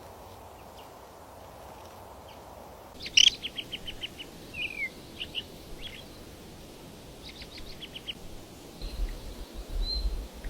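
Small songbirds chirping: after about three quiet seconds, a quick run of short high chirps, a down-slurred note, and another cluster of chirps. A low rumble comes in near the end.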